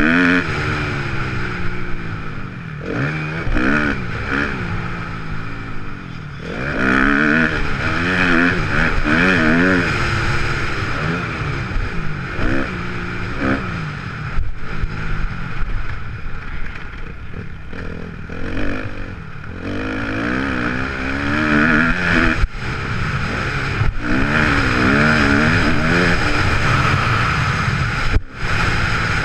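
Kawasaki KX250F motocross bike's single-cylinder four-stroke engine being ridden hard, its pitch rising and falling over and over as the throttle is opened and shut, with a couple of short drops where the throttle is cut.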